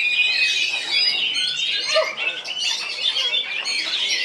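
Oriental magpie-robin singing without pause: a rapid, varied stream of whistles, gliding notes and short chirps.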